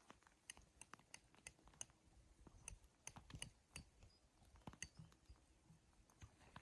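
Faint, irregular sharp clicks and ticks, a few a second, over near silence.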